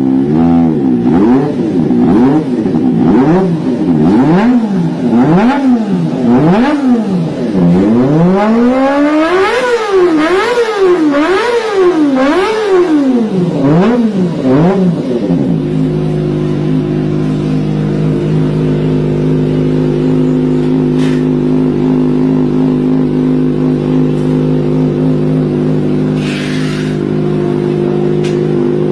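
Superbike engine revved repeatedly through its exhaust, the pitch climbing and falling about once a second, a little faster near the middle, then held at a steady engine speed from about fifteen seconds in.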